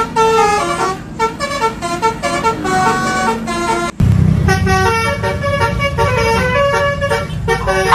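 Basuri 'telolet' multi-tone bus horn playing a quick melody of stepped notes over a low engine rumble. There is a short break about halfway through, after which the rumble is louder.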